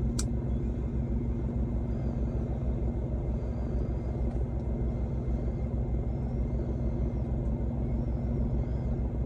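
Diesel semi-truck engine idling: a steady low rumble, with a single sharp click just after the start.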